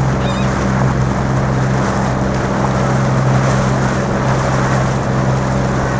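Small motorboat's engine running steadily, a low even hum under a constant rush of water and wind noise.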